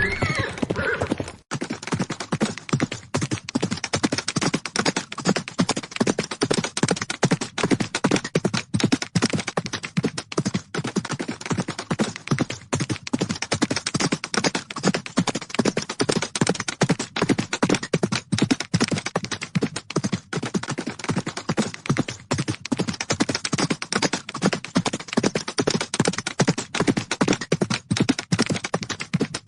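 Horses galloping: a dense, continuous drumming of rapid hoofbeats on the ground. A horse's whinny fades out in the first second.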